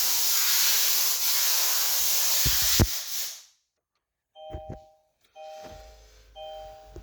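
A loud steady hiss that cuts off about three and a half seconds in. After a brief silence come a few knocks, then the 2022 Kia Sorento's warning chime: a two-note ding repeating about once a second.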